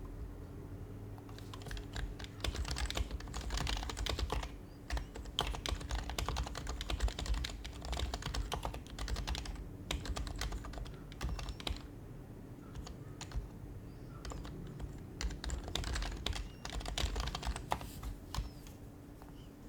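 Typing on a Happy Hacking Keyboard Professional HYBRID Type-S (silenced Topre switches): runs of quick keystrokes broken by short pauses, with a lighter scatter of keys in the middle. A steady low hum runs underneath.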